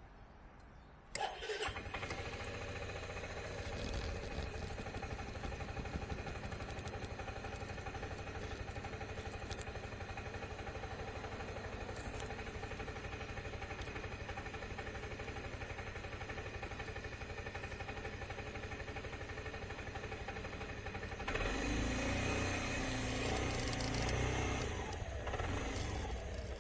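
Suzuki Skywave 250 Type M scooter's single-cylinder engine starting about a second in, then running steadily. It grows louder for a few seconds near the end.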